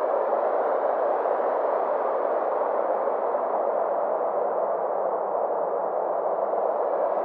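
Synthesized space ambience: a steady drone of filtered noise centred in the midrange, its brightness slowly sweeping up and down over several seconds.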